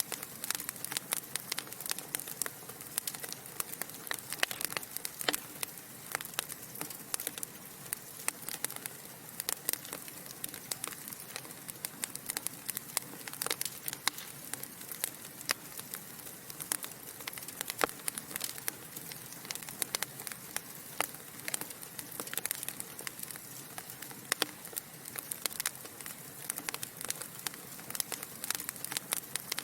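Wood fire burning in a fireplace: dense, irregular crackling and popping of burning logs over a steady soft hiss.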